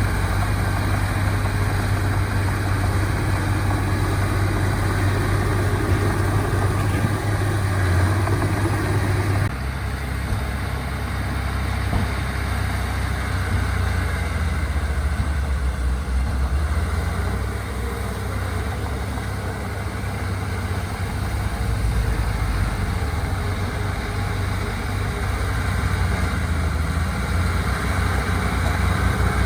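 Diesel engine of heavy earthmoving machinery running steadily, with a deep low hum; the engine sound changes abruptly about nine and a half seconds in.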